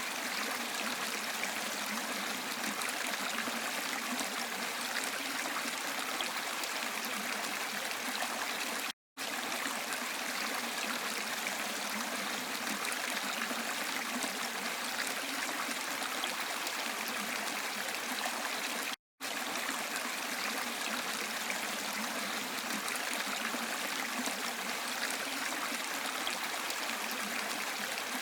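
Steady rush of a waterfall's running water, with no change in pitch or strength. Twice, about ten seconds apart, it cuts out for a split second of silence and picks up again.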